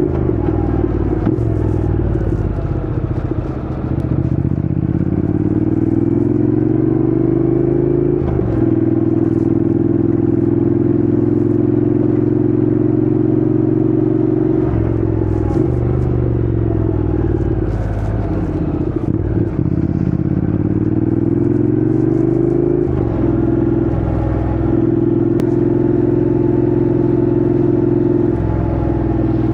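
Honda NC750X parallel-twin motorcycle engine under way. Its pitch drops sharply and climbs again several times as it shifts up or down through the gears, with longer stretches of steady cruising in between.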